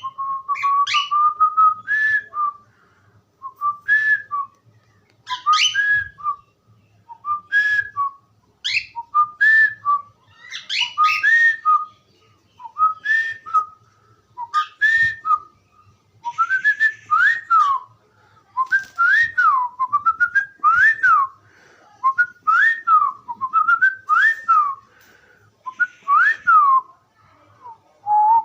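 Cockatiel whistling and chirping in short repeated phrases every second or two, with rising-and-falling whistled notes through the second half.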